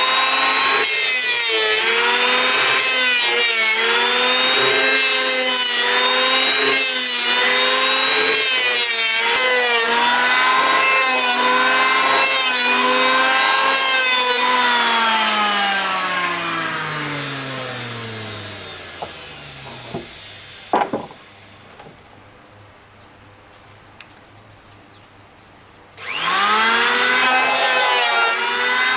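Handheld electric power tool working wood. Its motor whine dips in pitch again and again as it is pressed into the cut, then winds down to a stop. After a few knocks and a pause, it starts again near the end, its pitch rising as it spins up.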